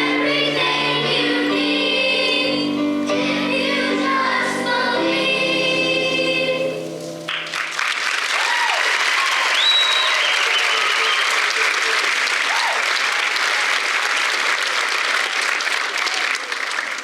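High school choir singing the final held chords of a song, cutting off about seven seconds in, followed by audience applause with a few whoops.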